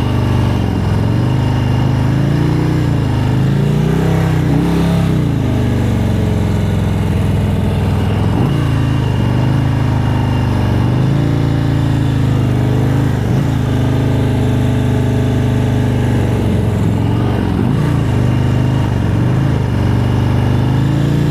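Motorcycle engine running at low revs, its pitch rising and falling gently and repeatedly as the bike is ridden slowly through tight turns on the clutch's friction zone.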